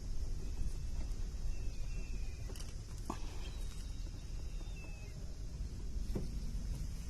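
Steady low outdoor rumble with a few faint clicks and knocks from parts being handled, and a few faint high chirps.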